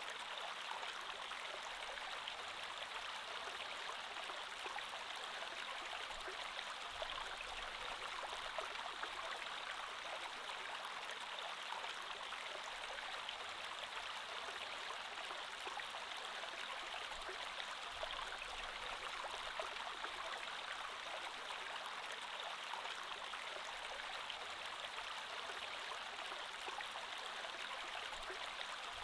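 A creek flowing steadily, a continuous rush of running water with fine splashing and no breaks.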